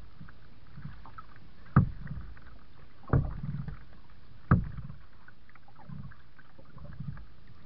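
Kayak being paddled: soft water swishes with the strokes over a steady background hiss, and three sharp knocks evenly spaced about a second and a half apart.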